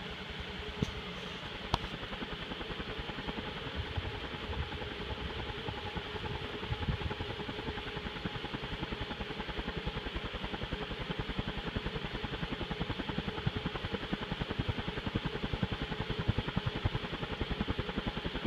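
TAT industrial ceiling fan running on high speed: a steady motor hum with a rapid, even pulsing from the turning blades, and a couple of light clicks near the start.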